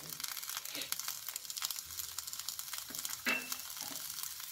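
Lightly boiled green peas sizzling and crackling in hot oil with cumin seeds in a non-stick pan, as the water on the peas cooks off.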